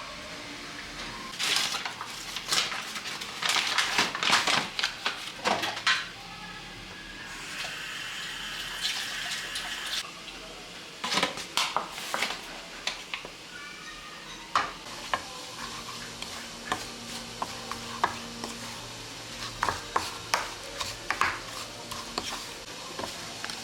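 Dishes and cutlery clinking and knocking together in repeated clusters of sharp clatter, as in handling or washing up kitchenware.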